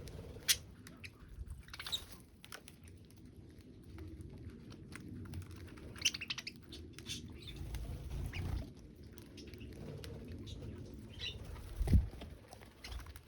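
Small birds giving short, scattered chirps amid clicks and rustling, with one louder thump near the end.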